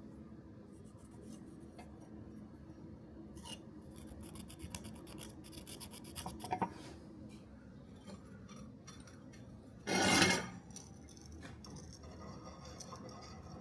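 Intermittent scraping and light clinks of hand work on steel, with one louder brief rasp about ten seconds in.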